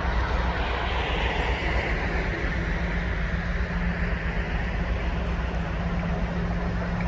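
Class 56 diesel locomotive engine running steadily with a low drone and a hiss over it, as it heads out light engine.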